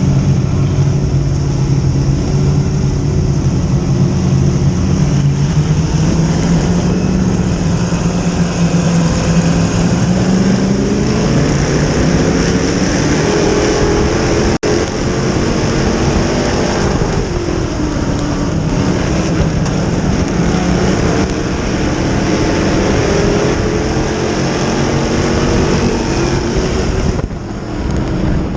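Dirt-track modified race car engine running hard under racing load, its pitch climbing and falling again as the revs rise and drop around the track.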